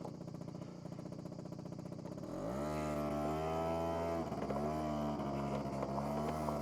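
Two-stroke 50cc scooter engine of a SYM Jet2 50, faintly idling, then revving up about two seconds in and holding a steady pitch, with a brief dip near the middle.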